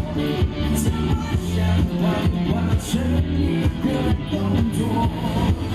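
A pop-rock band playing an instrumental passage with no lead vocal. Bass notes run under a steady drum beat, with cymbal splashes about once a second.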